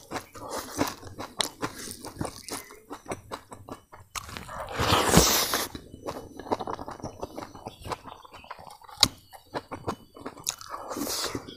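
Close-up chewing and crunching of a mouthful of crispy fried grasshoppers with rice, with many small, irregular crunches. About five seconds in comes a loud rush of breath through pursed lips, lasting about a second.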